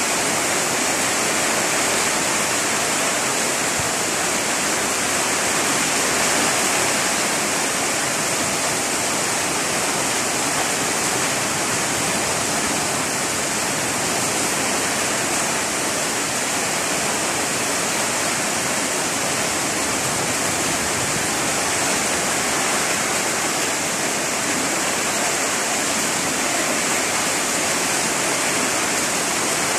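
Heavy rain falling on grass and leaves, a dense, even hiss that holds steady throughout.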